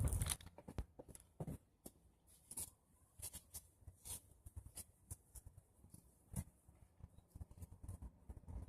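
Brush fire of pruned tree branches and leaves crackling, with scattered irregular pops and snaps. A brief low rumble sounds right at the start.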